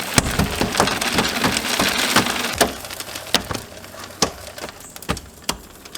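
Goat feed poured out of a container and scattering on the ground: a dense patter for about three seconds that thins to scattered separate ticks as the last of it falls.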